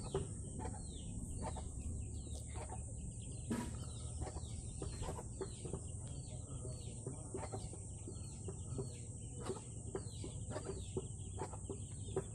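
Birds chirping busily, many short falling chirps in quick succession, over a steady high hiss.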